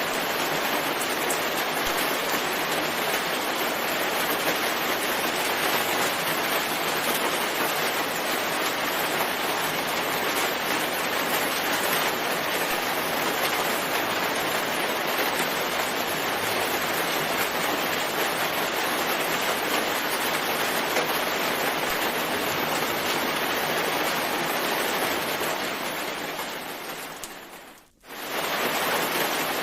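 Steady heavy rain falling. Near the end it fades away almost to silence and swells back up within a couple of seconds, as at the joining point of a looped recording.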